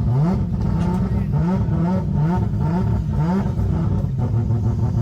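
Drag car's engine revving in quick repeated throttle blips, its pitch rising and dropping about twice a second over a steady low rumble.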